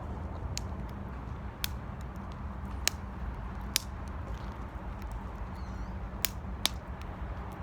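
Wood fire burning in an 18-litre square metal can (一斗缶), crackling with irregular sharp pops over a steady low rumble.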